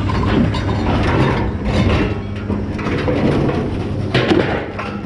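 Scrap metal clanking and scraping as it is pulled and dropped, a string of irregular knocks with a steady low engine-like hum underneath.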